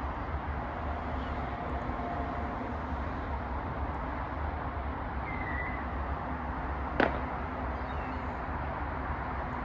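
Steady outdoor background rumble and hiss, with a short faint bird call about five seconds in and a single sharp click about seven seconds in.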